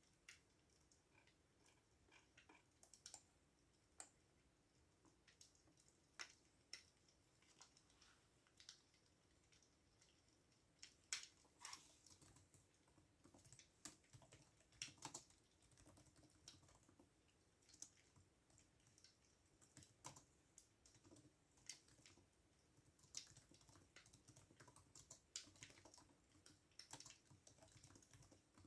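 Faint computer keyboard typing: irregular keystrokes, sometimes single and sometimes in quick runs.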